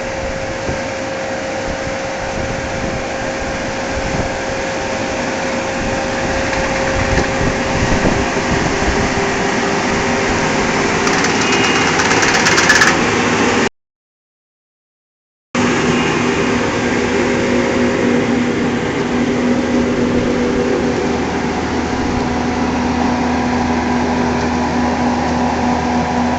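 Grape harvesting machine running steadily with an even engine hum and mechanical rattle. It grows louder about halfway through, cuts out for about two seconds, then carries on with a steadier tone.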